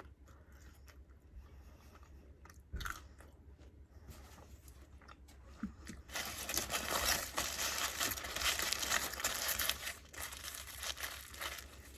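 Close-miked eating: soft mouth clicks at first, then about four seconds of dense crunching and chewing from about halfway in.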